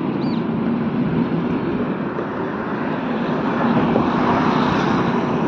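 Passenger train's coaches rolling past below, a steady rumble of wheels on rails that swells a little about four seconds in.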